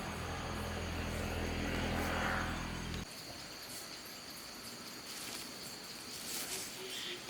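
An engine running steadily at low speed, cut off abruptly about three seconds in, then quiet outdoor ambience.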